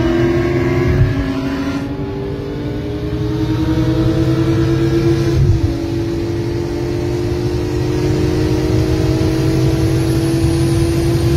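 BMW M6 (E63) V10 engine heard from inside the cabin under hard acceleration, its pitch climbing steadily through a gear, dropping suddenly at an upshift about five and a half seconds in, then climbing again.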